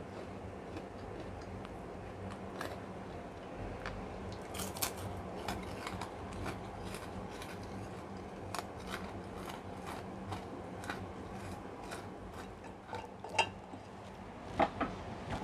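Crunching and chewing of krupuk crackers eaten by hand: scattered short crisp crackles throughout, with a few louder clicks near the end.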